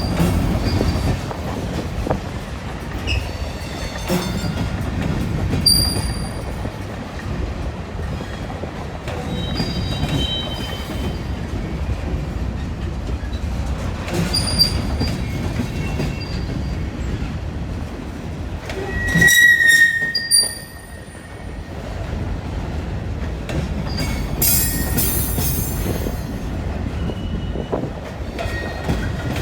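Freight cars of a long BNSF train rolling past with a steady low rumble of wheels on rail. Short high-pitched wheel squeals come and go, with a loud squeal about two-thirds of the way through and a burst of shrill squealing a few seconds later.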